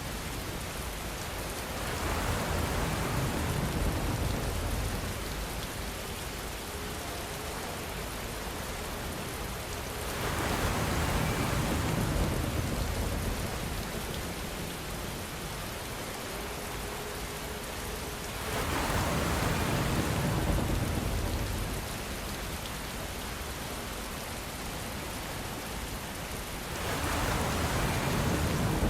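Steady rainfall with no thunder. The rain swells louder for a few seconds about every eight seconds, four times, then eases back.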